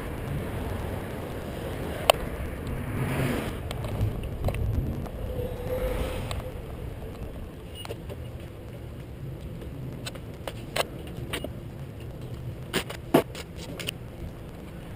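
Steady low rumble of wind and road noise on a bicycle ride, swelling twice, with scattered sharp clicks and light rattles, the loudest one about two seconds in and another near the end.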